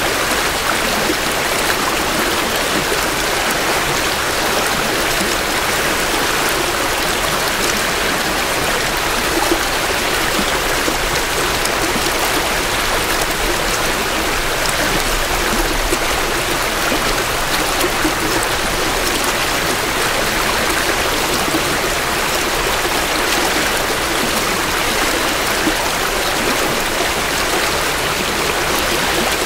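Creek water flowing steadily over rocks, a continuous even rush of running water, recorded close to the bank in stereo.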